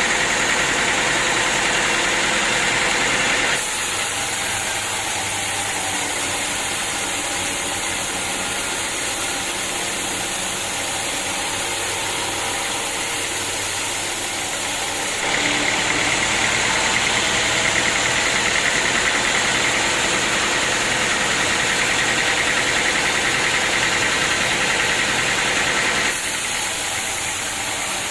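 Sawmill machinery running steadily, a dense mechanical din. Its loudness and tone shift abruptly about three and a half seconds in, again about fifteen seconds in, and near the end.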